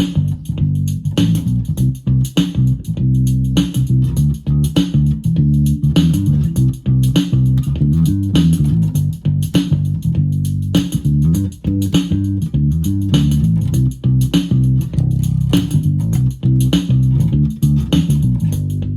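Electric bass guitar played through a Roland Micro Cube Bass RX amp: a run of changing bass notes over the amp's built-in drum machine beat.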